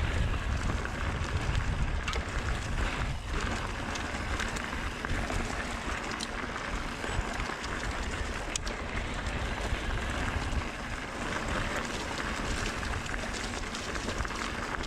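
Mountain bike descending a dirt trail: steady wind rush on the action camera's microphone and tyre noise, with a few sharp clicks and knocks as the bike goes over bumps.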